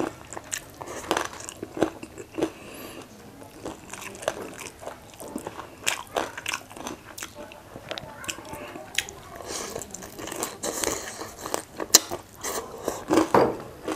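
A person chewing and biting crispy battered fried food close to the microphone, with irregular sharp crunches and wet mouth sounds, the loudest crunches near the end.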